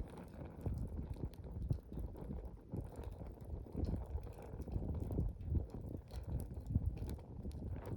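Wood campfire burning, with irregular small crackles and pops over a low rumble of flame.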